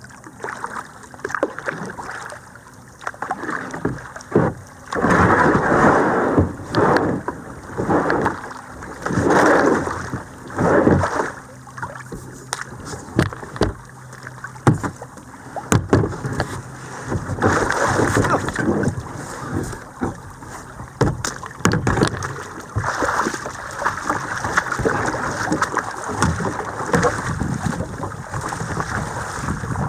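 Kayak paddle strokes in creek water, a splashing swish about every second or so with occasional knocks, giving way to a more continuous rushing noise in the second half.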